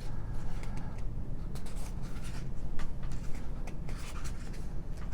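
Paper pages of a booklet being turned and handled: soft rustles and light ticks over a steady low hum.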